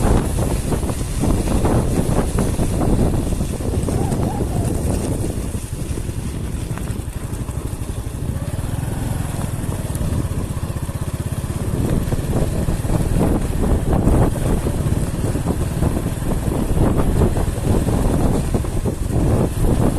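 A vehicle travelling along a road: engine and road rumble with wind buffeting the microphone, a little quieter for a few seconds in the middle.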